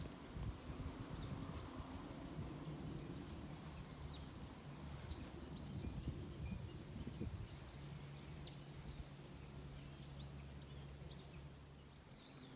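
Small birds calling outdoors: short, high, arched whistled notes repeated at irregular intervals, over a low steady rumble.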